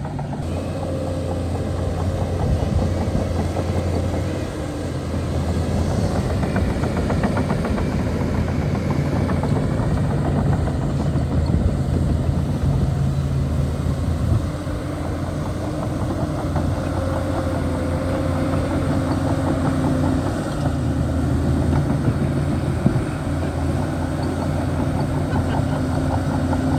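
Diesel engine of a Shantui DH17C2 bulldozer running steadily under working load, its note dropping and picking up again a few times as the load changes.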